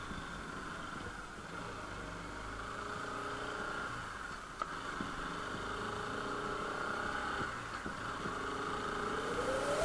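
Motorcycle engine idling steadily at low volume, its pitch drifting a little, with a single click about halfway through. Near the end a rising electronic sweep begins as music comes in.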